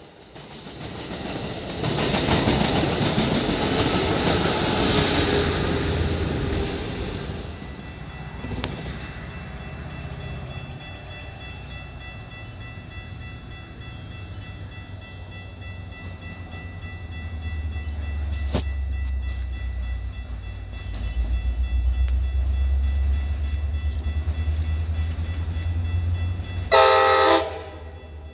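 Amtrak passenger cars rolling away on the rails, their noise fading after several seconds. Then the low rumble of an approaching Metra diesel locomotive grows louder, and one short horn blast sounds near the end.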